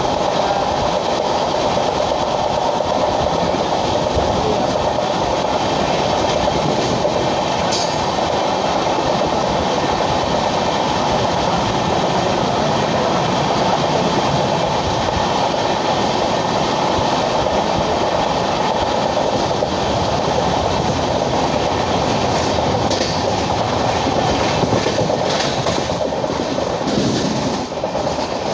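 Express train with LHB coaches running steadily at speed, wheels on the rails making an even running noise with faint clicks.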